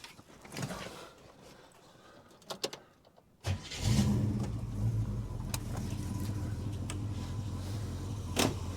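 Holden HK engine starting about three and a half seconds in, catching at once and settling into a steady idle. A few small clicks come before it starts, and a sharp knock sounds near the end.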